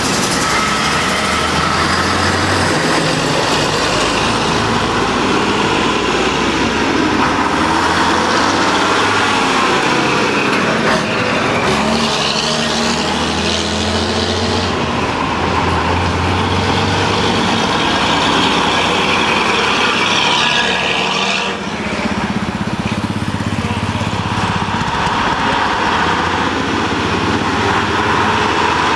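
Heavy truck engines running as the vehicles drive past, the engine note rising and falling. The sound changes abruptly about twelve seconds in and again about twenty-two seconds in.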